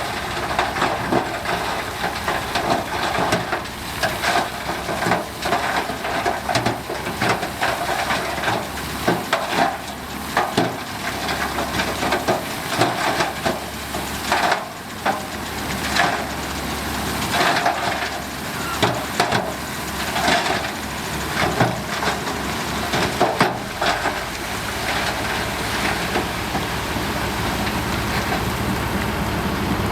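Heavy earthmoving machinery working soil: a diesel engine running under irregular crunching and knocking of dirt and stones, turning to a steadier engine sound for the last few seconds.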